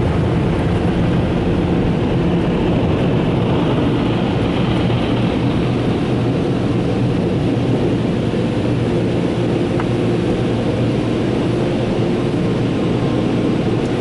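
Mark VII ChoiceWash XT gantry's onboard dryer blowers running steadily as the machine passes over the car, a loud air rush with a low hum, heard from inside the car's cabin.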